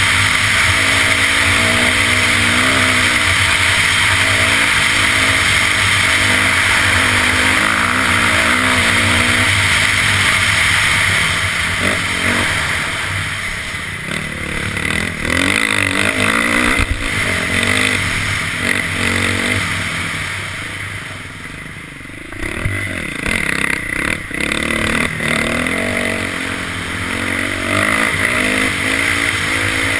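Dirt bike engine being ridden, its pitch rising and falling with the throttle. It eases off for a few seconds about two-thirds of the way through, then picks up again.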